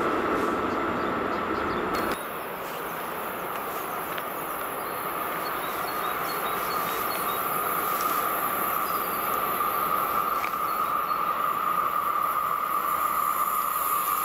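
A freight train hauled by an electric locomotive approaches around a curve. Its steady running noise carries a high, even whine and slowly grows louder. About two seconds in, an earlier, different noise cuts off suddenly.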